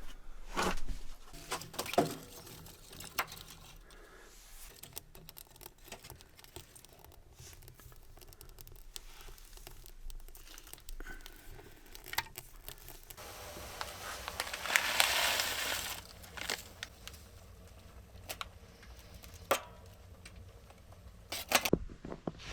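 A small wood stove being got ready and lit: scattered knocks, clicks and crinkling as kindling and wood are handled and laid in. About two-thirds through comes a few seconds of louder rustling hiss.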